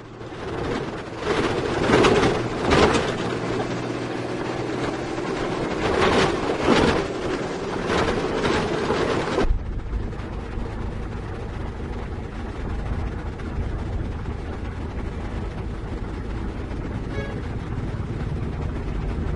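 Heavy diesel machinery running, with loud surges in engine noise a few times in the first half. After a sudden change midway it settles into a steady low engine drone.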